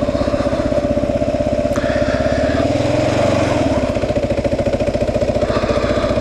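The single-cylinder engine of a 2009 Kawasaki KLR 650 running steadily with an even, rapid pulse.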